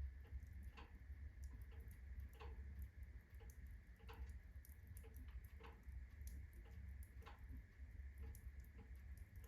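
Unsplit birch logs burning at full blaze in a fireplace: faint, irregular crackles and pops, one or two a second, over a low steady rumble of the fire.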